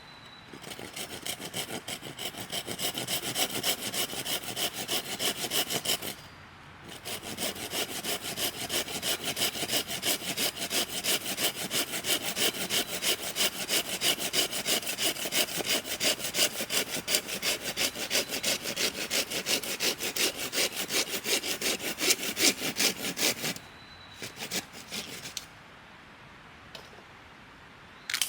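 A hand saw cutting through a piece of firewood with quick, even back-and-forth strokes. It stops once briefly about six seconds in, saws on steadily until near the end, and then a few light knocks follow.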